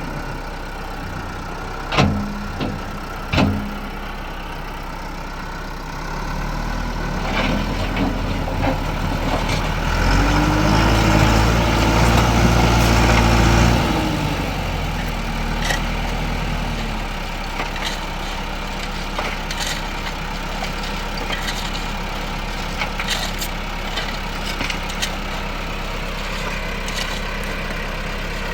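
Tractor engine running steadily, revving up for a few seconds in the middle and then settling back. Two sharp knocks come in the first few seconds.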